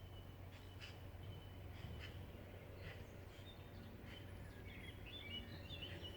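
Birds chirping: short calls about once a second, then a busier run of song near the end, over a faint steady low hum.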